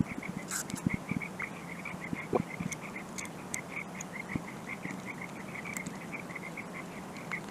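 A small animal, frog or insect, calling in a steady rhythm of short chirps, about four or five a second, with scattered light clicks and taps over it.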